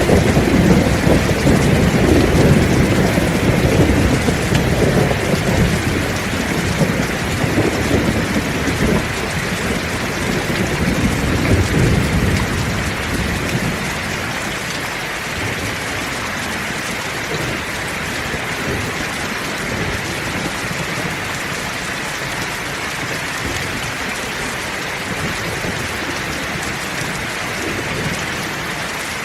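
Heavy rain falling steadily, with a long low roll of thunder that is loudest at the start and dies away about halfway through.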